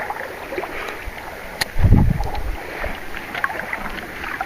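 Steady rush of creek water, with a dull low thump about two seconds in and a few faint clicks.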